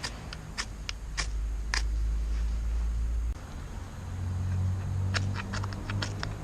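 Campfire wood crackling, with irregular sharp pops that come thick and fast near the end, over a low steady rumble that shifts in pitch about halfway through.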